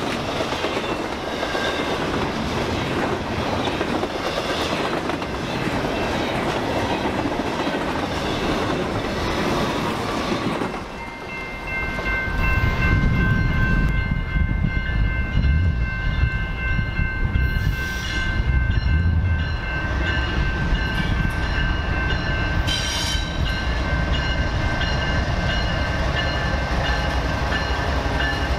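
A BNSF train passing close by, its wheels rolling over the rails with a clickety-clack. About eleven seconds in, the sound turns into a deeper rumble with several high steady tones held over it.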